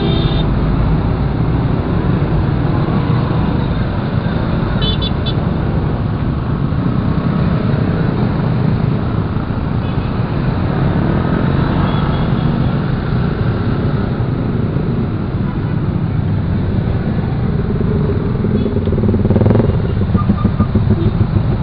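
Motorcycle riding in slow, heavy traffic: steady engine and road noise, with a short high horn beep about five seconds in.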